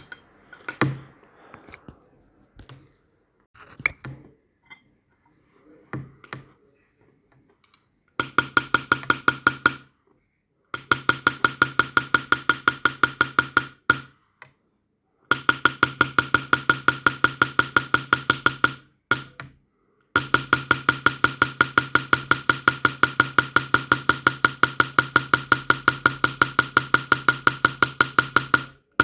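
Small hammer tapping a chasing or engraving punch on silver, metal on metal. A few scattered knocks at first, then long runs of fast, even taps at about eight a second, each with the same ringing note, stopping briefly now and then.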